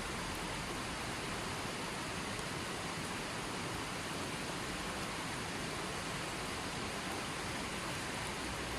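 Running water, a steady even rush with no breaks or changes.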